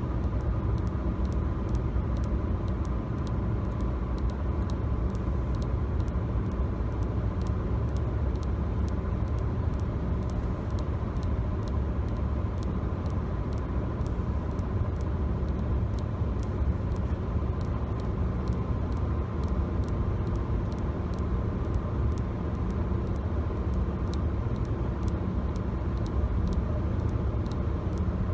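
Steady road and engine rumble inside a moving car's cabin, heavy in the low end and unchanging, with a faint steady hum and a fast, faint high ticking running through it.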